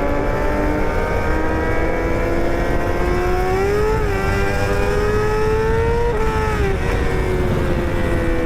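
Motorcycle engine pulling with its note rising steadily, dipping briefly twice, then dropping and falling slowly as the throttle eases, over a steady wind-and-road rumble.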